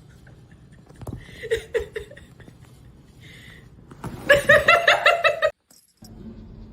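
A person laughing in quick, rhythmic bursts, loudest from about four seconds in and cut off suddenly at about five and a half seconds. After the cut a faint steady hum follows.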